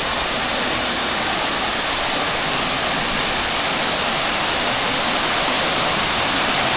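Waterfall: water pouring in a steady loud rush, growing slightly louder toward the end.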